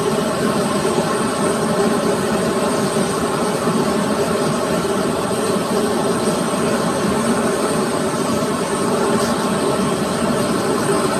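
KT-1B Woongbi turboprop aircraft engine and propeller running steadily: a continuous drone with several steady tones, holding an even level without rising or fading.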